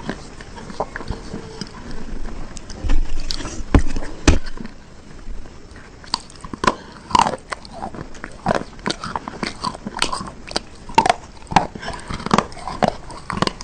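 Close-up biting and chewing of hard, brittle bars: sharp snaps as pieces break off, two loud bites early, then a quick run of crunches as the pieces are chewed.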